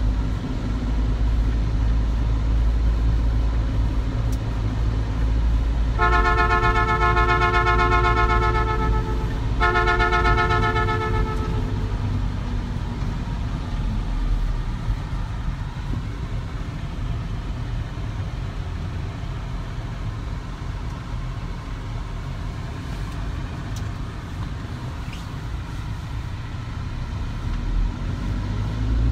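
Vehicle running with a steady low rumble, and a horn sounding two long blasts about six seconds in, the first held about three seconds and the second about two.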